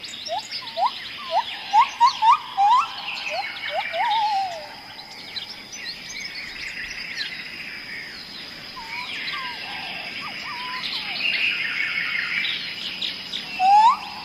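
Songbirds singing in a forest: a repeated short rising whistle in quick series in the first few seconds and again near the end, with higher twittering chirps from other birds between, over a steady thin high buzz.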